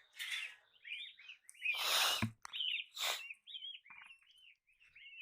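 A bird calling over and over, short arched chirps about two a second. A louder burst of noise comes about two seconds in, and a shorter one a second later.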